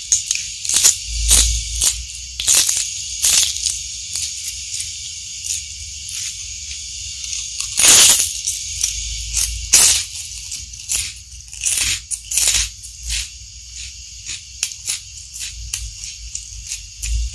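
Close-miked eating of raw lettuce leaves and a crisp fried cracker: irregular sharp crunches and wet chewing, the loudest crunch about eight seconds in.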